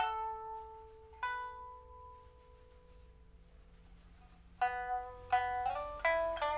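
Pipa with a newly fitted soundboard and frets, a steel first string and copper-wound lower strings, played solo: a tremolo passage ends and rings away, a single plucked note about a second in rings on, and after a pause a slow phrase of separate plucked notes begins at about four and a half seconds, with one note bent upward in pitch.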